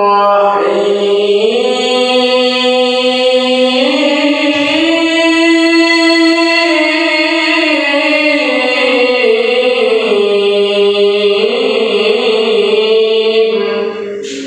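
Male qari reciting the Quran in the melodic tilawah style, holding long ornamented notes. The pitch steps up around the middle and eases back down, and the phrase fades out just before the end.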